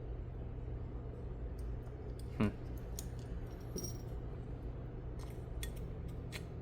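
Small die-cast and plastic parts clicking and clinking as they are handled and set down, a few scattered light ticks over a steady low hum, with one brief falling squeak about two and a half seconds in.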